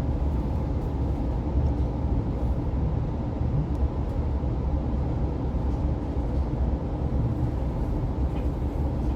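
Steady low rumble inside an Oscar H set electric intercity train carriage as it runs along the track.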